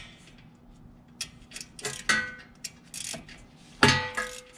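Socket wrench with an 8 mm socket and extension clicking and clinking against metal bolts as it is fitted and worked. The loudest is a ringing metal clank near the end.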